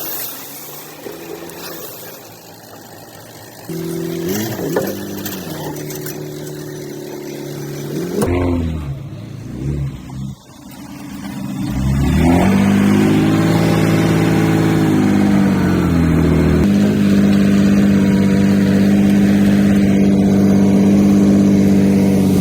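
Heavy diesel earthmoving engine working, quieter with shifting pitch at first, then revving up about twelve seconds in and running loud and steady under load, with a brief dip in pitch around sixteen seconds.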